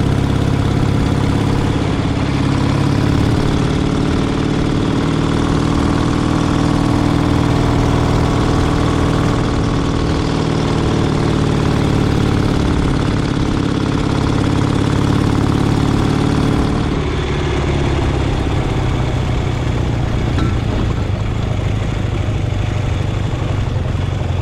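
A motor vehicle engine running steadily close by, its note changing about two-thirds of the way through.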